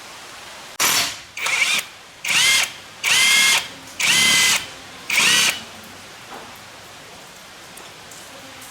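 Electric drill run in six short trigger bursts over about five seconds, each one spinning up quickly to a steady whine and then stopping.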